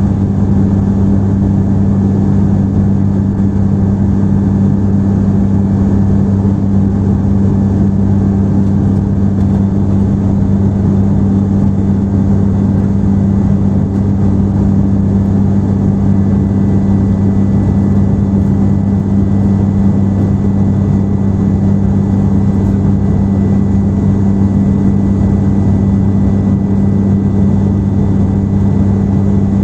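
Airliner cabin noise in flight: a steady engine and airflow drone with a strong, even low hum.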